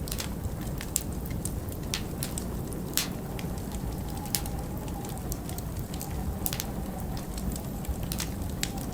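Wood fire crackling in a fireplace, with sharp pops at irregular intervals, a few every second, over a steady low rumble of winter wind.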